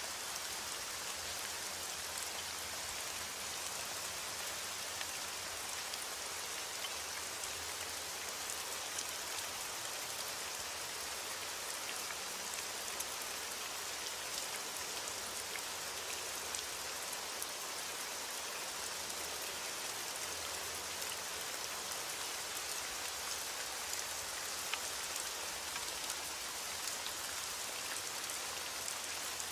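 Heavy rain falling steadily on a window: an even hiss with many small sharp ticks scattered through it.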